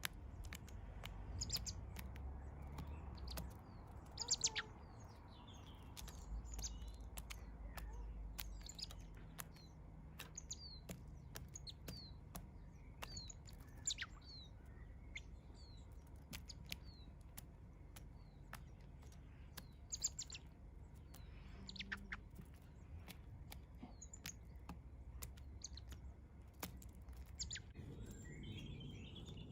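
Small garden birds chirping on and off: short high chirps and brief falling notes, with sharp little clicks scattered between them.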